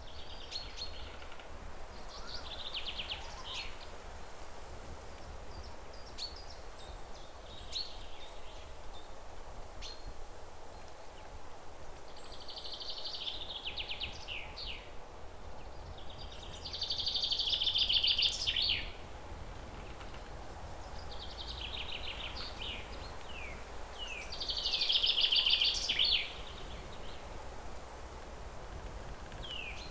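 Songbirds singing in repeated phrases of rapid trills and quick down-sliding notes, with the loudest phrases about 17 and 25 seconds in, over a low steady background rumble.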